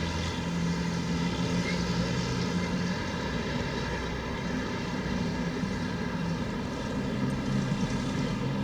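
A steady mechanical drone: a low engine-like hum with a ladder of even overtones, holding a fairly constant pitch over outdoor background noise.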